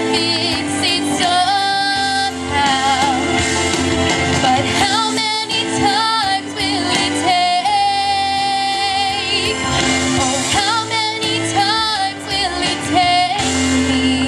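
A girl's solo voice singing a slow pop ballad over musical accompaniment, with vibrato and a long held note in the middle.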